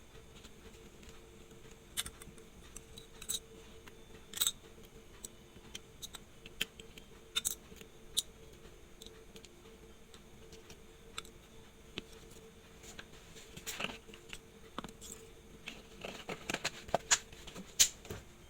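Small metal watchmaker's tools, such as tweezers, clicking and tapping on the parts of a watch movement: scattered sharp clicks, coming closer together in the last few seconds.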